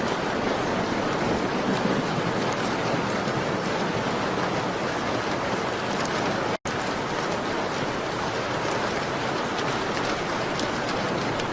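Steady rain on a window, mixed with a fireplace, with faint scattered ticks. The sound cuts out for an instant about two-thirds of the way through.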